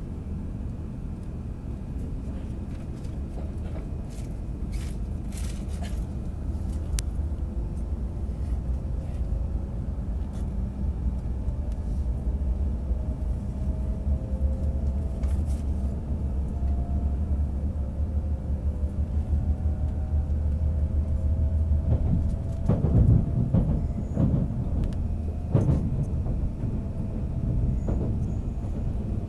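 Shinkansen train heard from inside the passenger cabin as it pulls out of the station and gathers speed: a steady low rumble with a faint motor whine that slowly rises in pitch. Near the end come a few louder rushing surges as another Shinkansen runs close alongside.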